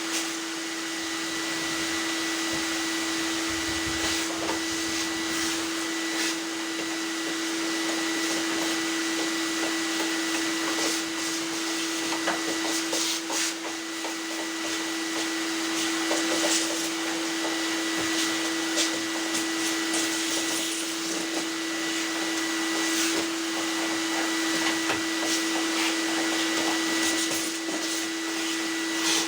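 Whirlpool DDLX 80110 tumble dryer running: a steady motor-and-fan whir with a constant hum and a higher tone over it, and light knocks now and then.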